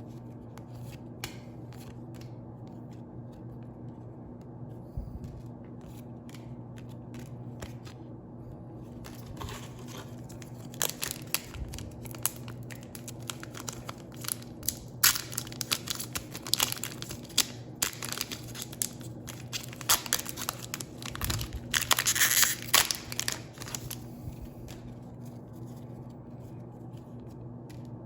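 Pokémon booster pack foil wrappers crinkling and tearing open, with a dense run of crackling rustles that is busiest in the second half. A steady low hum runs underneath.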